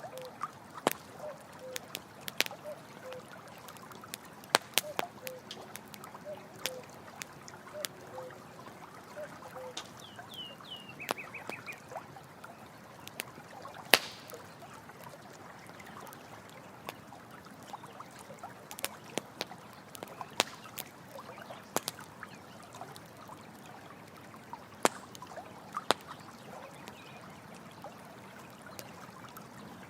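Campfire crackling with frequent sharp pops over steadily trickling running water. A short low animal call repeats about once a second through the first nine seconds, and a brief run of high falling chirps comes about ten seconds in.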